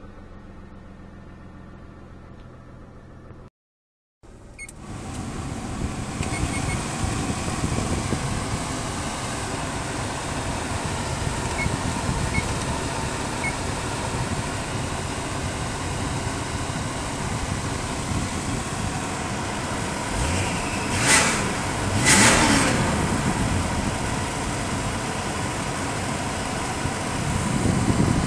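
Subaru SVX's flat-six engine idling in Park at about 1000 rpm, heard inside the cabin, with air rushing from the dash ventilation fan. After a short break early on the sound becomes steadily louder, and there are two brief louder swells a little past the middle.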